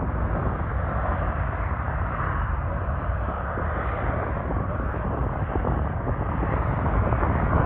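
Boeing C-17A Globemaster III's four turbofan jet engines running, a steady deep rumble with a broad roar on top.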